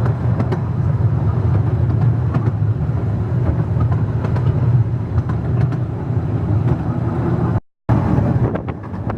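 Carriage of the Ravenglass and Eskdale narrow-gauge railway running along the track: a steady low rumble with faint scattered clicks from the wheels. The sound breaks off for a moment near the end.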